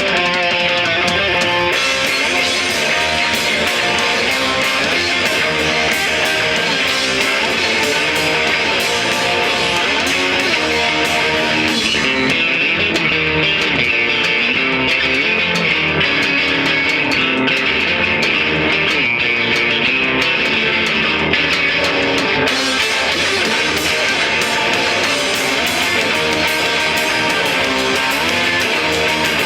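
A rock band playing live: guitar over bass and drums, loud and steady. The bright top end drops away for about ten seconds in the middle, then comes back.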